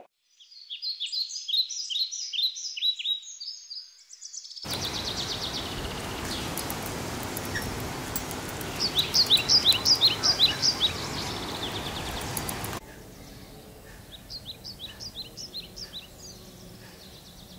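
Small birds chirping in quick, repeated high calls. From about four and a half seconds in, a steady outdoor noise runs under them, with a loud run of chirps near the middle. The noise drops off about two-thirds of the way through, and softer chirping carries on.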